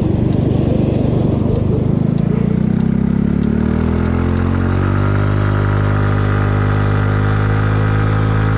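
Kymco People 250 scooter's single-cylinder four-stroke engine under way, picking up speed with a rising note over the first few seconds, then cruising at a steady pitch over wind and road noise. Its exhaust leaks are plugged with high-heat JB Weld epoxy, and the rider hears it as a lot quieter.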